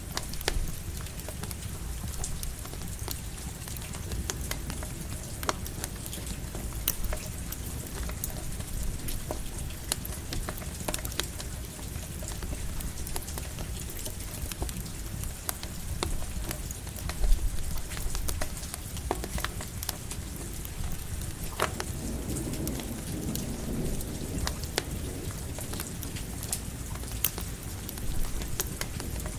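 Campfire crackling with sharp pops under steady light rain, with a roll of thunder rumbling about three quarters of the way through.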